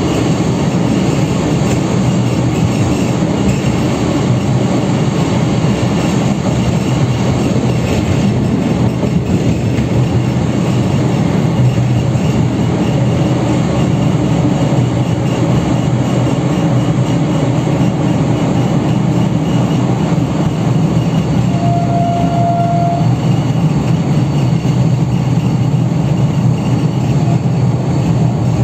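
Steady low rumble of a historic passenger train on the move, heard from inside a carriage hauled by a D445 diesel locomotive. A short, steady high tone sounds once about three-quarters of the way through.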